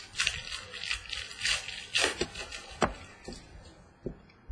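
Crinkling and rustling of trading-card packaging being opened and handled, a fast irregular crackle that thins out after about three seconds into a few separate clicks.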